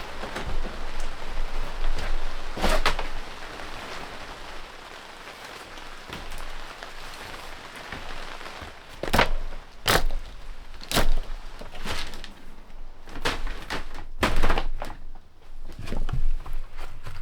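A steady hiss, then from about nine seconds in a run of sharp knocks and thunks at irregular spacing, the loudest two near the middle of that run.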